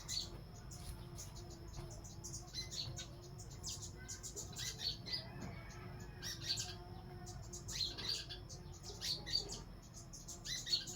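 Many birds chirping, short high calls coming in quick clusters every second or two, over a steady high-pitched tone and a faint low hum.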